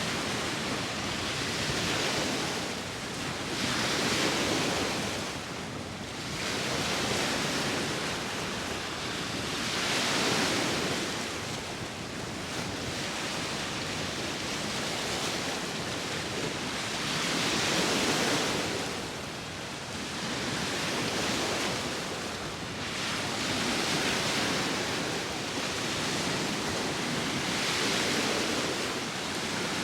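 Sea waves washing onto a shore, a continuous rush that swells and eases roughly every three to four seconds, with wind blowing.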